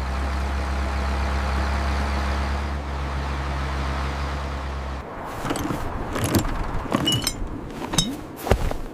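An engine sound effect running with a steady low hum, cutting off abruptly about five seconds in, followed by a few scattered clicks and knocks.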